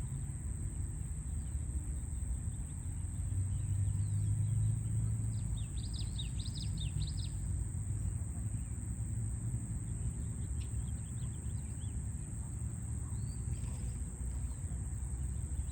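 Birds chirping over a steady low rumble of distant city traffic, with a quick run of chirps about six seconds in.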